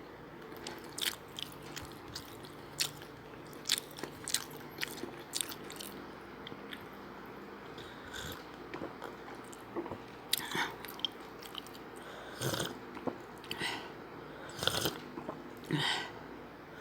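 A person eating close to the microphone: irregular chewing, wet mouth smacks and small crunches as she works through a meal of rice and tilapia.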